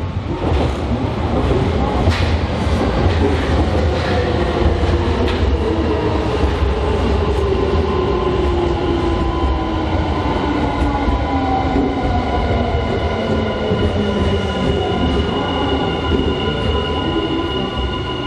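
Semboku Rapid Railway electric commuter train pulling into a station and braking to a stop. There are a few wheel clicks over rail joints early on, and a whine that falls slowly in pitch as the train slows.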